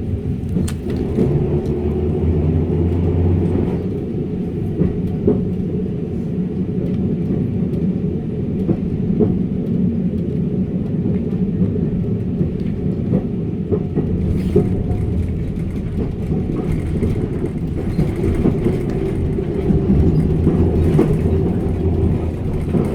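Electric tram running along its track, heard from on board: a steady low rumble with scattered clicks and knocks.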